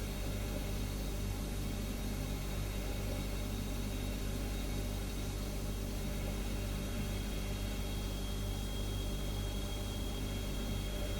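Refrigerator humming steadily: a low hum over an even hiss, with a faint high whine coming in about halfway through.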